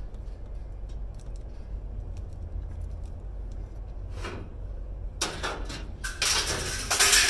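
Scrap metal being handled: a steady low rumble, then from about five seconds in a run of loud clattering and rattling, loudest near the end.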